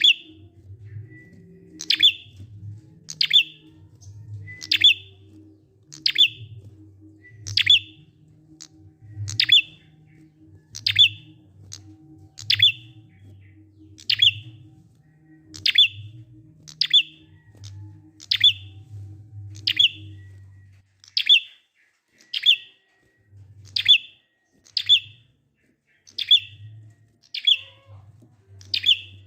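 Prinia (prenjak) calling a slow, regular series of single sharp chirps, each a quick downward sweep, about one every second and a half.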